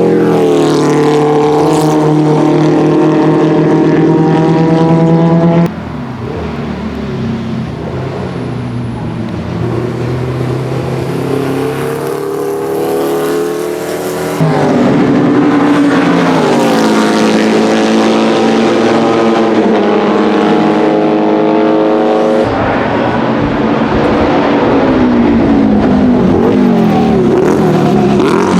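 Porsche 904 GTS's 2-litre Type 587 flat-four racing engine running hard, its pitch climbing and dropping with revs and gear changes. The sound jumps between joined clips: loud at first, then quieter for several seconds with the pitch climbing, then loud again.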